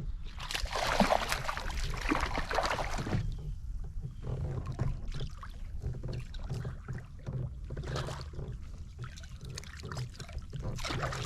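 Water splashing and sloshing around a kayak, loudest for a couple of seconds near the start, then a run of short splashes and knocks.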